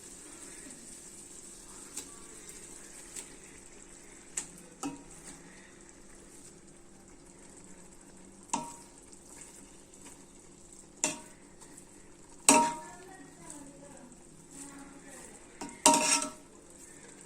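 A metal spoon clanking against a cooking pot at irregular intervals as cooked rice is spooned over chicken biryani gravy. Some strikes ring briefly, over a faint steady hiss.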